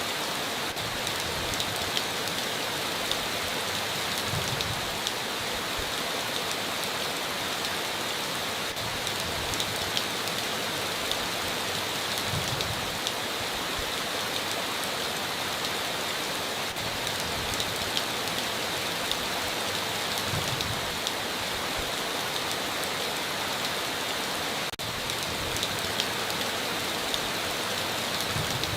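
Steady heavy rain on a tin roof, a continuous hiss dotted with sharp individual drop ticks. A soft low thud recurs about every eight seconds.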